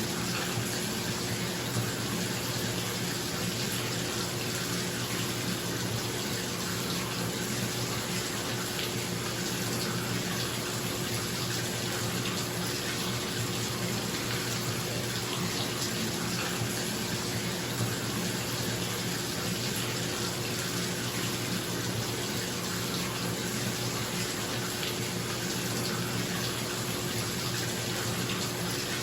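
Bathtub tap running steadily into a filling tub, with a bathroom exhaust fan humming underneath.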